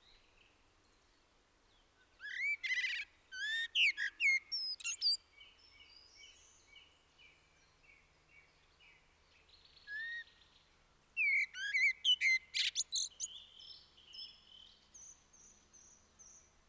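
Songbirds singing in the open air, with no other activity. One bird sings two loud bouts of quick, sweeping notes, about two seconds in and again about eleven seconds in. Softer series of repeated chirps fill the gaps between and near the end.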